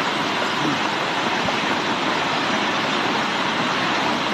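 Steady rushing of water, loud and unbroken, as floodwater pours or heavy rain falls.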